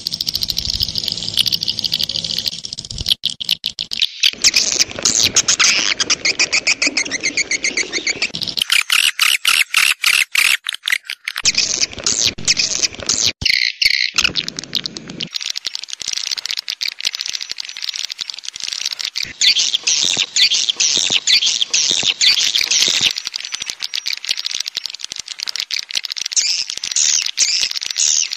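Swiftlet lure-call recording: many swiftlets chirping and twittering in a fast, dense chatter. The texture changes abruptly several times where recorded segments are spliced together.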